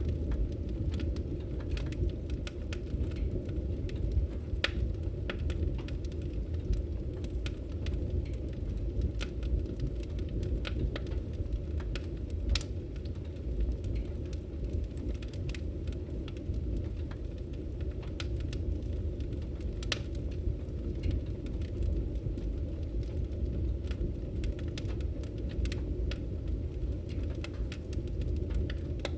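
Wood fire burning in a fireplace, crackling with frequent small, irregular pops over a low, steady rumble.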